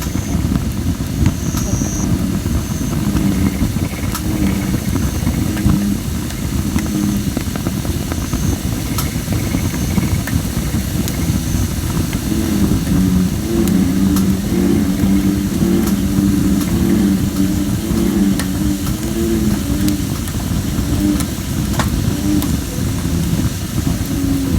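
Campfire of thin, under-dried red robin (Photinia) wood crackling with scattered sharp pops and an intermittent faint high hiss from moisture in the wood. Underneath, American bullfrogs call in low, repeated pulsing notes over a steady low drone, thickest from about halfway through.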